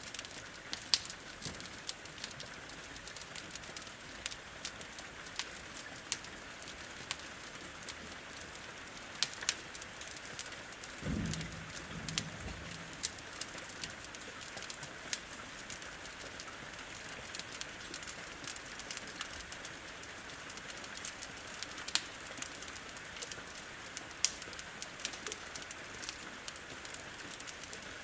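Steady rain hiss with a wood fire crackling, sharp pops scattered irregularly throughout. About eleven seconds in, a short low pitched sound lasts a second or so.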